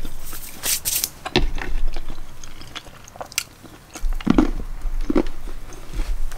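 Close-up chewing of a chicken quesadilla, with irregular crisp crunches and wet mouth clicks.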